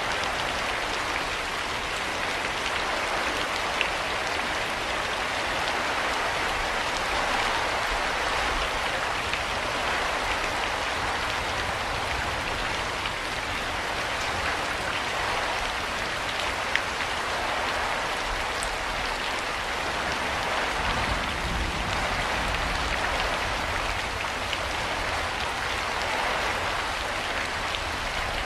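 Steady rain falling: an even hiss of many drops, with now and then a single louder drop standing out.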